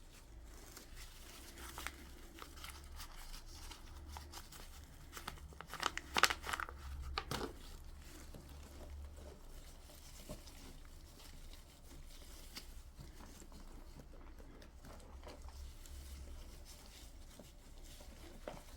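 Crinkling and rustling of something being handled, with a cluster of louder, sharp crackles about six to seven seconds in.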